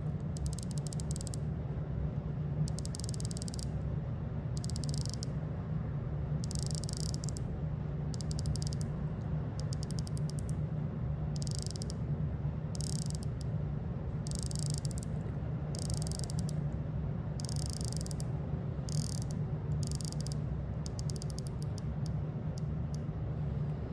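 Rolex Submariner 'Starbucks' unidirectional dive-watch bezel being turned by hand: its ratchet gives runs of fine, rapid, crisp clicks, again and again with short pauses between turns.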